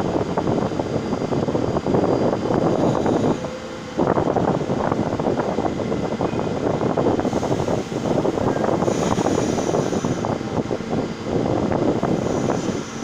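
R46 subway train moving through the station: a loud, steady rumble and clatter of steel wheels on the rails, dropping briefly about a quarter of the way in.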